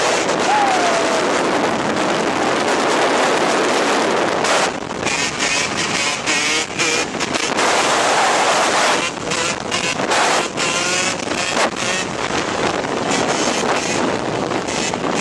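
Motocross dirt bike engines running and revving, the pitch rising and falling, with wind noise on the microphone and frequent abrupt breaks in the sound.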